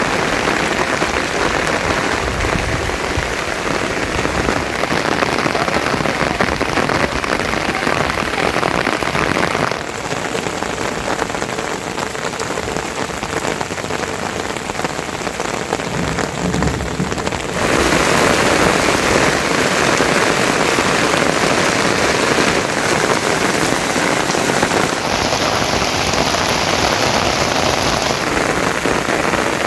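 Rain falling steadily, a dense hiss of drops; its tone changes abruptly a few times, about ten seconds in and again near 18 and 25 seconds.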